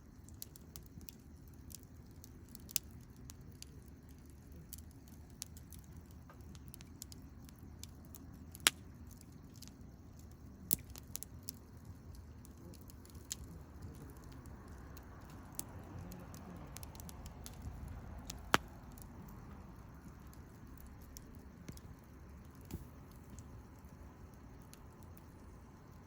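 Campfire crackling, with scattered sharp pops over a low steady rumble; the two loudest pops come about 9 and 18 seconds in.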